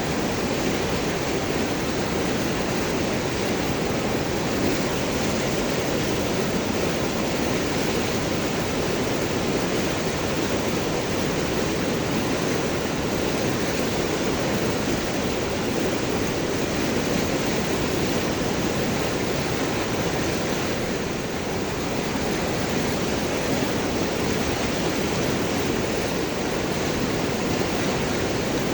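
River water flowing and gurgling over large rocks, a steady unbroken rush.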